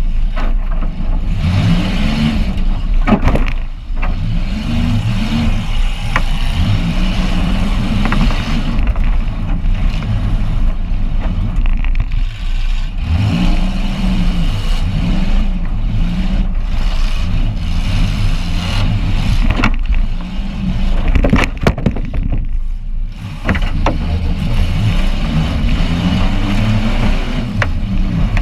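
Demolition derby car's engine heard from inside its stripped cabin, revving up and down again and again as it drives on the dirt. Several sharp bangs cut through it, the loudest a few seconds in and again about two-thirds of the way through.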